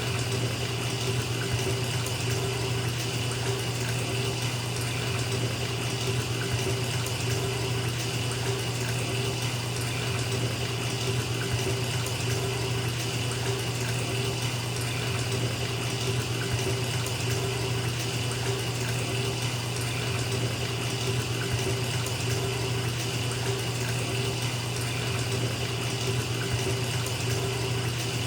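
Water pouring from a tap into a filling bathtub: a steady, unbroken rush of splashing water with a low hum underneath.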